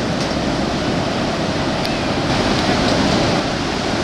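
Ocean surf washing ashore, a steady rushing noise with no break.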